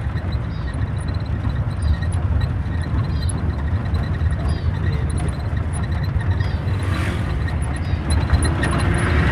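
Steady rumble of a road vehicle on the move, engine and road noise with no break.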